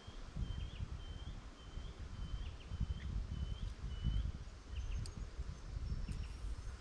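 A bird calling one short note over and over, about two a second for roughly four seconds, followed by a few higher chirps. Underneath, wind buffeting the microphone makes an uneven low rumble.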